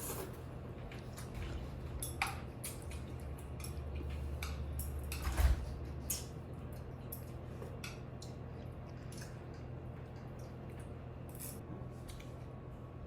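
Small clicks and clinks of utensils against a bowl and wet noodle-eating sounds, with one louder knock about five and a half seconds in, over a low steady hum.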